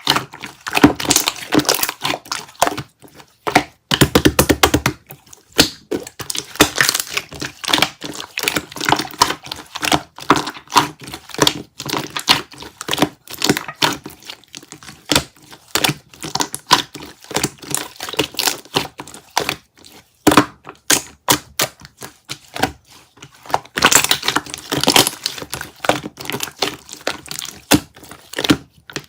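Close-up rapid, irregular tapping, clicking and crinkling of handled objects, with a brief fast rattle about four seconds in.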